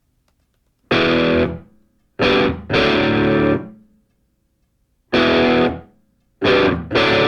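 Music: distorted electric guitar playing separate chord stabs. Each chord rings and fades, with short silences between them; the first comes about a second in and the last two are close together near the end.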